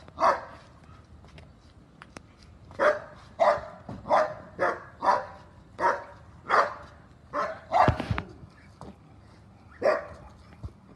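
A dog barking repeatedly: one bark, a pause of about two seconds, then a run of short barks about every half second, and one more bark near the end.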